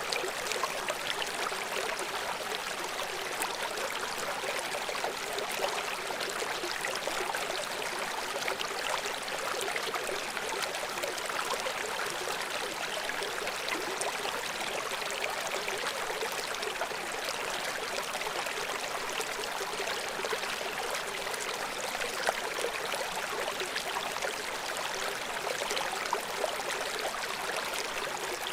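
Steady rushing and splashing of a river stream flowing over rocks below a waterfall, with no let-up.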